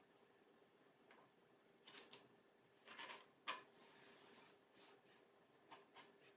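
Kinetic sand being cut and shaped: faint, short crumbly scrapes and rustles, the sharpest about three and a half seconds in, with a longer soft hiss just after it.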